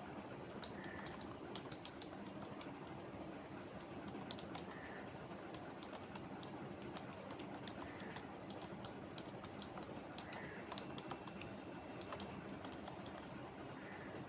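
Typing on a computer keyboard: a quick, irregular run of key clicks over steady low background noise.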